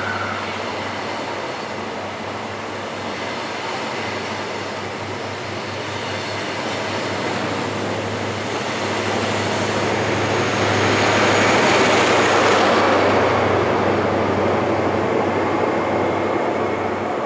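High Speed Train of Mk3 coaches running past at speed, a continuous rush of wheel and rail noise over a steady low hum. It swells to its loudest about ten to thirteen seconds in, then eases off.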